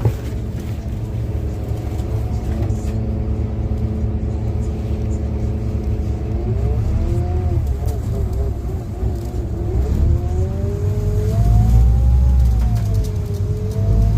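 Scania N250UD double-decker bus's diesel engine heard from inside on the top deck. The engine note holds steady for the first several seconds, then rises and falls as the bus pulls away and gathers speed, climbing in pitch after about ten seconds before dropping back and rising again near the end.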